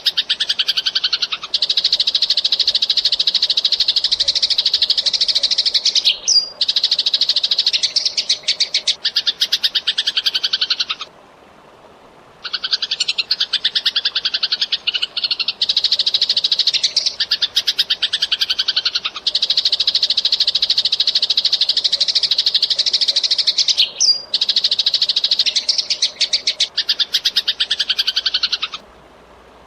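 Eurasian tree sparrow chirping in long, fast, tightly packed runs of high chirps. The runs break off briefly twice, once around the middle and once near the end.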